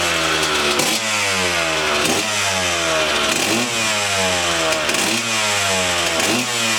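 Kawasaki KX125 single-cylinder two-stroke motocross engine being revved in repeated throttle blips: the pitch climbs over about a second, then drops back sharply, about five times.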